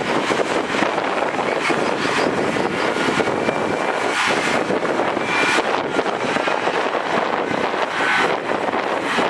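Heavy earthmoving machinery running steadily, a dense diesel engine noise with faint high whistling tones coming and going.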